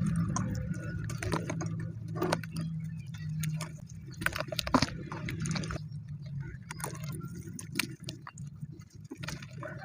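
Hardened sand-cement chunks being crushed and crumbled by hand: irregular crunches and crackles, over a low hum that fades out about halfway through.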